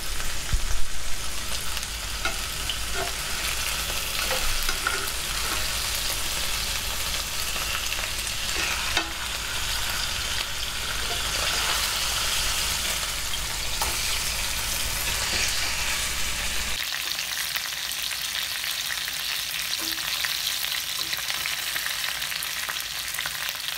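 Marinated chicken pieces shallow-frying in a little sunflower oil in a pan on low flame, with a steady sizzle and crackle. A few light taps come in the first ten seconds as the pieces are turned.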